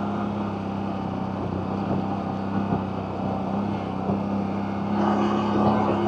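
CFMoto CForce 1000 ATV's V-twin engine running steadily while the quad is ridden along a trail. The engine note gets a little louder about five seconds in.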